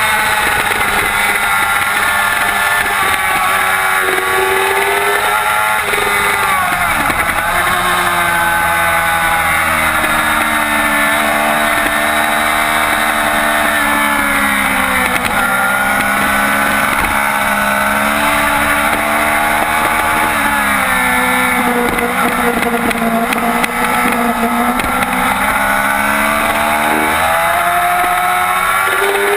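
Yamaha YZF-R6 inline-four sport bike engine at racing speed, revving high. The pitch falls as it slows and climbs again as it accelerates through the gears, several times.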